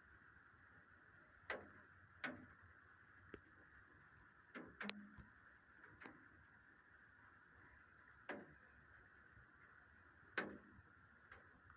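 Steady faint rain hiss, with about eight sharp drops striking a hard surface at uneven intervals.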